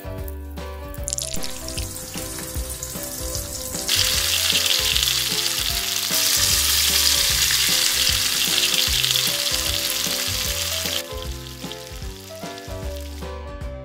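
Food sizzling as it fries in a miniature frying pan, over background music. The sizzle is faint at first, grows much louder about four seconds in, and drops back near the end.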